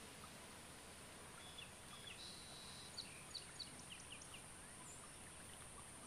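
Quiet outdoor ambience with a steady high hiss and faint chirping of small birds, a quick run of short high chirps about two to four seconds in.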